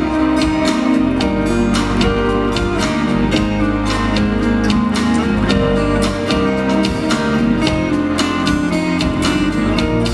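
Live band music without vocals: strummed acoustic guitar over bass and drums keeping a steady beat, the instrumental outro of a pop song.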